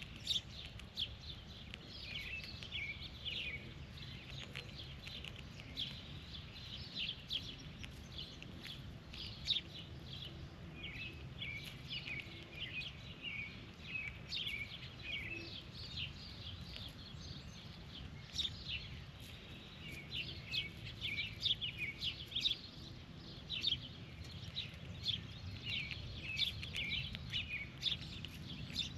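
Birds chirping outdoors, many short high calls following one another closely throughout, over a steady low rumble.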